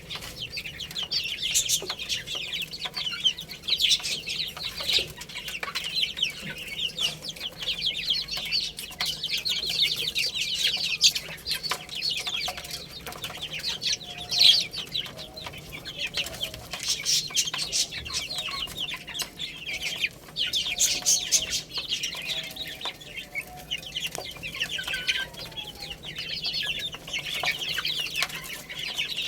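A group of baby chicks peeping continuously, many short high-pitched chirps overlapping, with some lower calls in the middle stretch.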